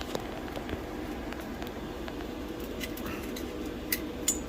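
Small clicks and, near the end, a couple of sharp metallic clinks from grow-light hanging hardware (rope ratchet hangers and a carabiner) being handled, over a steady low hum.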